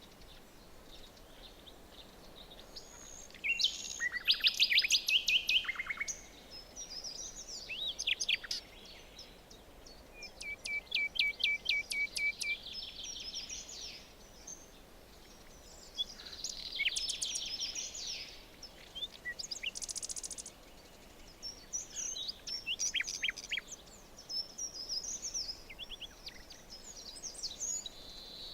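Forest songbirds singing in turn: short phrases of chirps and rapid trills of repeated notes every few seconds, over a faint steady hiss of forest ambience.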